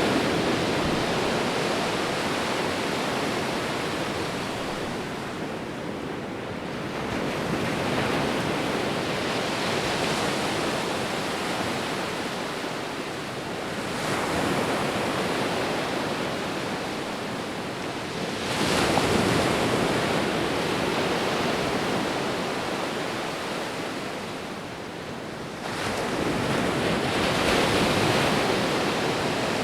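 Ocean waves breaking on a shore: a continuous rush of surf that swells and falls back, with a fresh wave arriving about every six to seven seconds.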